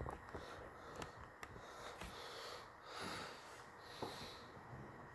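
A person breathing faintly, with a few short breaths or sniffs and small clicks.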